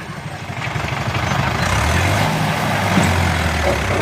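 Mahindra Turbo 595 tractor's diesel engine running, growing louder over the first second and then holding steady.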